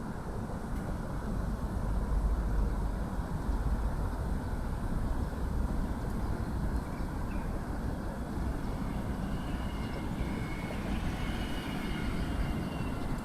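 Steady rumble of road traffic from the nearby Second Ring Road, a little louder from about two seconds in, with faint high tones in the second half.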